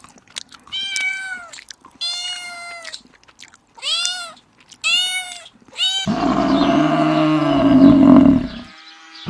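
A cat meowing in a series of short, high calls, about five of them. About six seconds in comes a sudden change to a louder, deeper animal call lasting about two and a half seconds.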